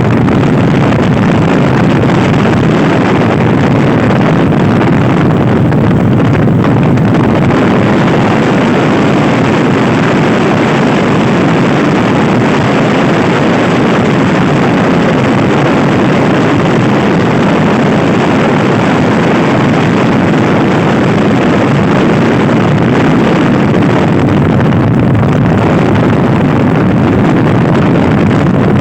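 Loud, steady wind rush buffeting the microphone of a Honda Scoopy-i scooter being ridden at speed.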